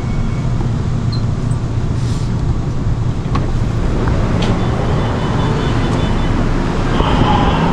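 Seoul subway train heard from inside the car, a steady low rumble as it pulls into the station. A faint high-pitched beeping tone sounds briefly in the middle.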